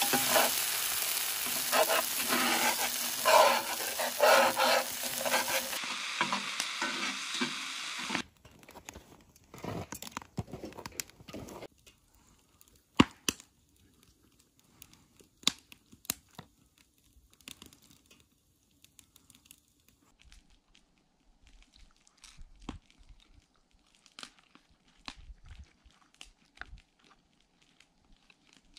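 Chickpea curry frying in a cast-iron skillet, sizzling loudly while a metal spatula scrapes and stirs through it; the sizzle cuts off about eight seconds in. After that there are only faint, scattered clicks and taps, as of plates and eating.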